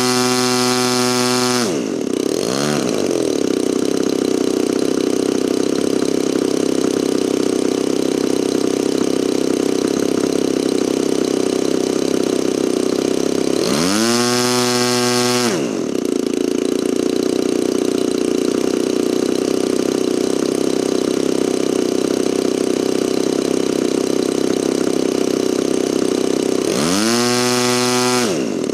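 DLE 35RA, a 35 cc single-cylinder two-stroke gasoline engine in an RC model airplane, on its first run: it falls from full throttle to a rough idle about two seconds in, is opened up to full throttle for about two seconds midway, drops back to idle, and is run up once more near the end. It runs well.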